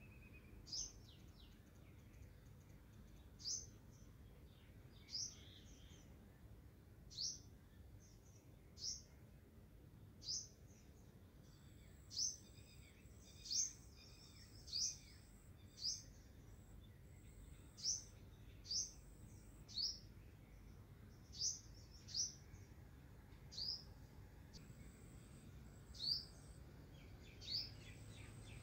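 A small bird chirping over and over, with short, high, downward-sweeping chirps every second or two.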